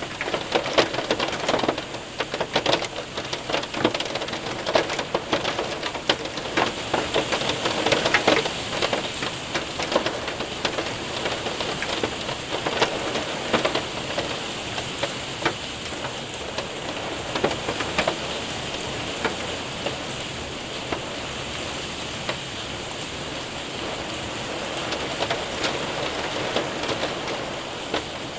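Hail and rain hitting a window and roof: many sharp ticks of hailstones over a steady hiss of rain. The hits come thickest in the first half, then thin out toward a smoother rain sound.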